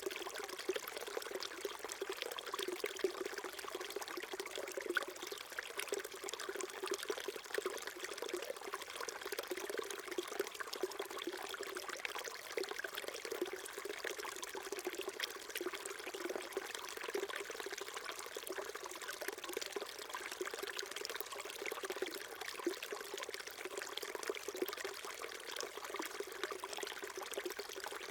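Small stream flowing and babbling over stones, a steady trickling and gurgling with many little splashes.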